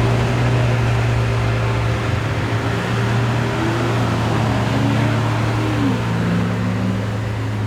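Lamborghini engine idling: a steady low drone, with a fainter pitch that rises and falls around the middle.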